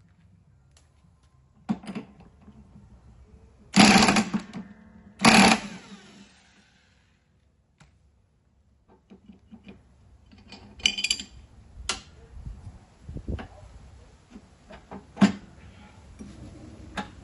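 Metal tools and mower parts clanking and knocking as they are handled. Two loud clanks about four and five seconds in ring on briefly, and lighter taps and knocks follow.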